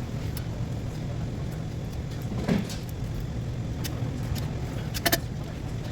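Ford Taurus V6 engine idling steadily. There is a single knock about halfway through and a few sharp metallic clinks near the end.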